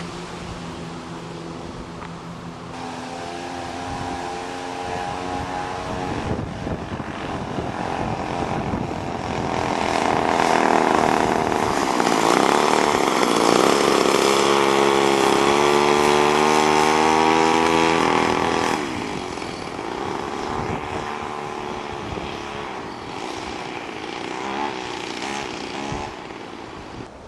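Small 32cc Remington two-stroke chainsaw engine running on a motorized skateboard as it is ridden. It grows louder about a third of the way in, holds there for about ten seconds with the pitch rising a little, then drops back.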